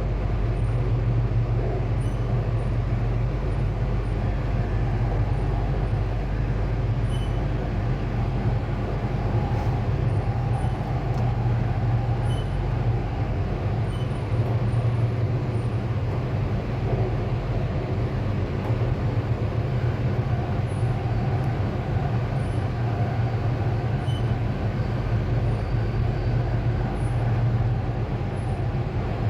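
Sydney Metro driverless train (Alstom Metropolis) running between stations, heard from inside the carriage: a steady rumble of wheels and traction with a low hum.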